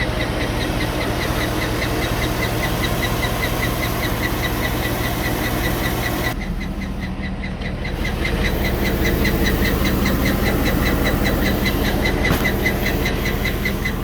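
2007 Cadillac Escalade's 6.2-litre V8 idling with a fast, steady ticking from the top end: the sign of bad lifters and camshaft wear, as the owner has it. About halfway through, the sound goes duller for a second or so, then the ticking comes back as before.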